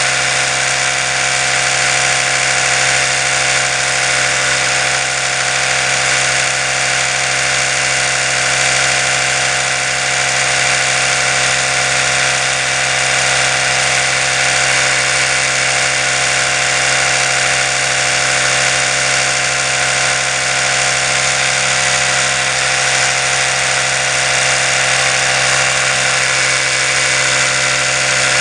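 Oral-B electric toothbrush running with its brush head spinning, a steady, unbroken buzzing hum.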